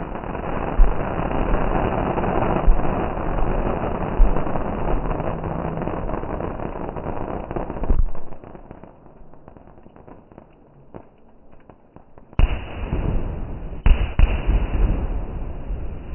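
Fireworks going off: a dense crackling barrage with heavy booms for about eight seconds, thinning to scattered crackles, then fresh loud bangs near the end.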